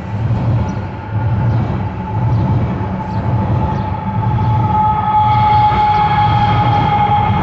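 A passing train rumbling, with a regular beat from the wheels over rail joints about every three-quarters of a second. Over it runs a steady high-pitched squeal that grows louder and fuller in the second half.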